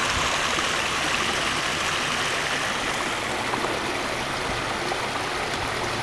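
Backyard koi pond's waterfall running, a steady even rush of falling water.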